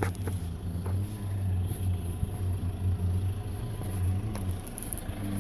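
A motor vehicle engine running with a steady low hum, with a few faint ticks over it.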